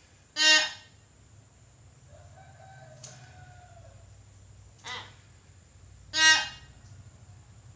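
Nias hill myna giving short, loud, harsh calls: two loud ones about half a second and six seconds in, a fainter one around five seconds in, and a brief faint whistle in between.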